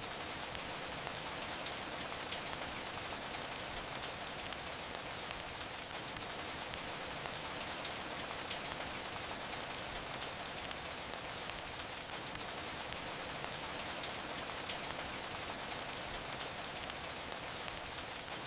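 Steady rain hiss, with sharp crackles from a wood fire popping now and then at irregular intervals.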